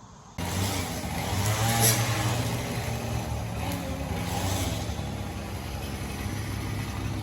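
An engine running steadily, starting abruptly about half a second in and loudest around two seconds in.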